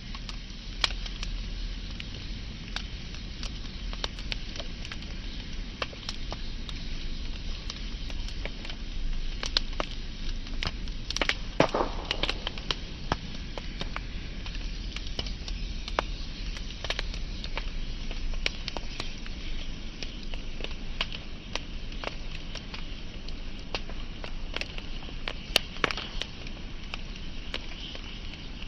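Wood fire burning with a steady hiss and irregular sharp crackles and pops, with a denser run of louder pops about twelve seconds in.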